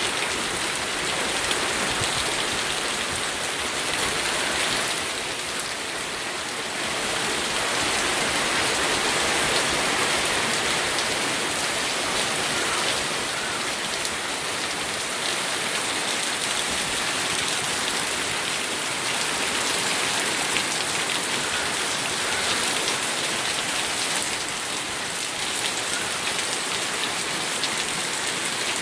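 Steady rain falling, with individual drops pattering on a surface; the level swells and eases slightly every few seconds.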